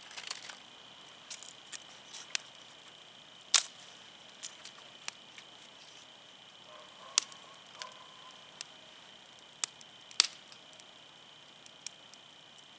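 Burning firewood crackling and popping in an open campfire: irregular sharp pops, a few much louder than the rest, about three seconds apart.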